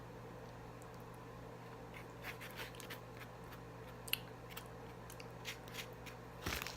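Close-miked eating: scattered soft crunches and wet mouth clicks of chewing, starting about two seconds in, with one sharp click about four seconds in, over a faint steady hum.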